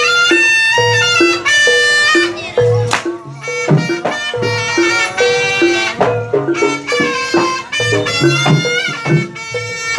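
Live jaranan music: a reedy shawm-like wind instrument carries the melody over drums and a steady two-note metallic percussion pattern repeating about twice a second.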